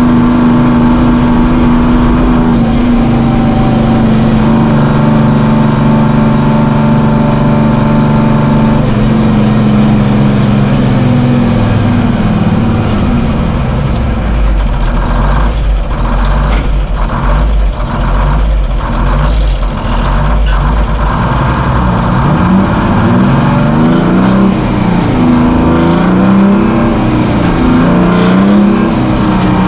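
Semi truck's diesel engine running, heard from inside the cab while driving. The engine note holds steady for about twelve seconds, drops lower, and then rises and falls several times near the end.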